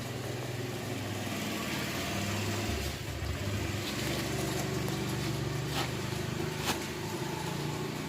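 A motor running steadily with a low hum, broken by two short clicks about six and seven seconds in.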